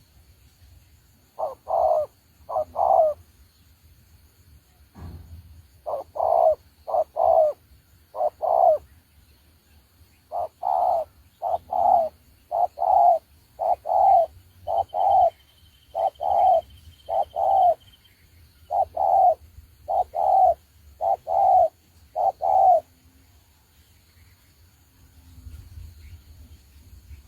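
Spotted dove cooing: runs of short, low coos, repeated in phrases separated by brief pauses, stopping a few seconds before the end.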